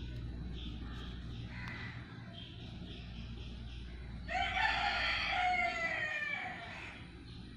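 A single long bird call lasting about two and a half seconds starts about four seconds in, over a low steady hum.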